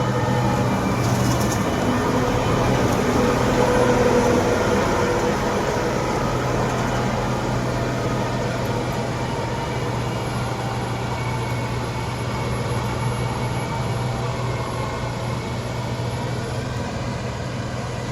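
Heavy diesel machinery engine running steadily at a constant speed.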